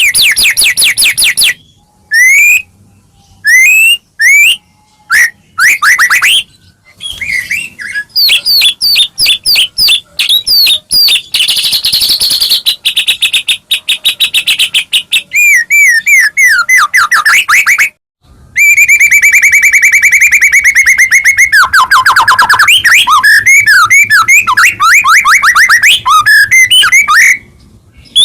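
White-rumped shama (murai batu) singing loudly in full song: rapid repeated chattering notes and rising and falling whistles broken by short pauses, with a long fast run of notes about two-thirds of the way through.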